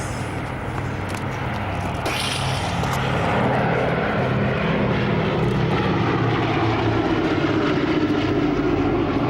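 B-17 Flying Fortress's four Wright Cyclone radial engines droning as the bomber flies its display. The drone grows louder about three seconds in, and its pitch slides down as the aircraft passes.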